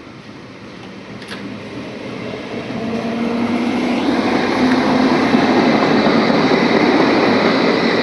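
A tram rolling through a tight turning-loop curve and growing louder as it comes near. About halfway in, steady high-pitched wheel squeal sets in: curve squeal from the wheels scrubbing on the rails of the tight bend.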